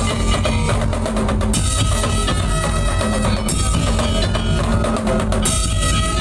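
Daul Madura music: a loud percussion ensemble with bass drum and other drums keeping a driving beat under sustained melodic tones.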